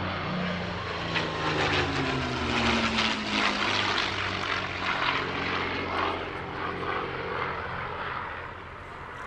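P-51 Mustang's Merlin V12 engine as the fighter flies past: the engine note falls in pitch as it goes by, is loudest about three seconds in, then fades.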